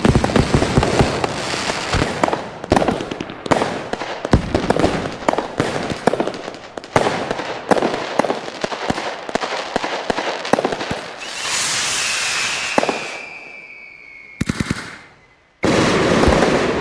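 New Year fireworks and firecrackers going off in dense, rapid strings of crackling bangs. Then a whistling firework gives a long whistle that falls slightly in pitch. Near the end there is another loud burst of noise.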